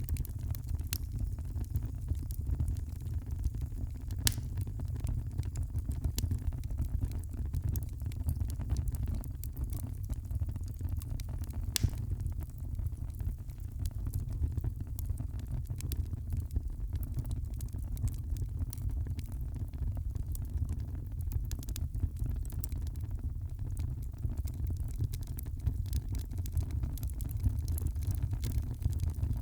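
Wood fire in a fireplace crackling and popping, with irregular sharp snaps over a steady low rumble of the flames.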